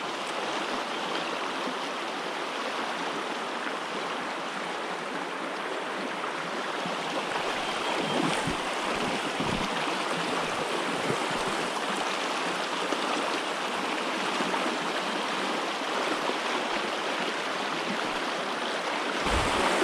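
River water rushing steadily, an even, unbroken wash of flowing water, with a few soft low thumps about halfway through.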